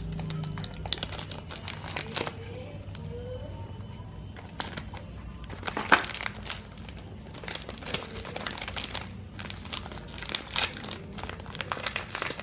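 Plastic snack packets crinkling as they are handled and cut open, with scattered sharp clicks and crackles, the loudest about six seconds in.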